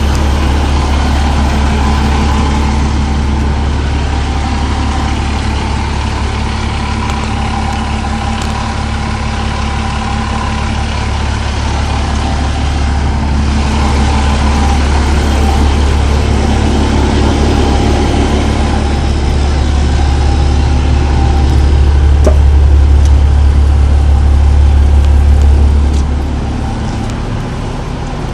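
Nippon Sharyo DH508 pile driver's diesel engine running steadily at a low idle, dropping in level near the end.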